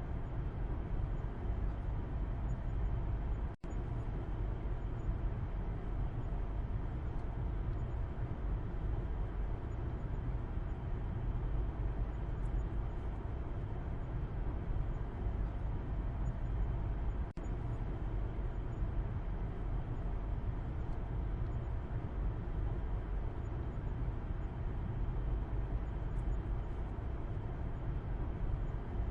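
Steady low rumble of a car driving, heard from inside the cabin in the back seat: road and engine noise, with the sound dropping out for an instant twice.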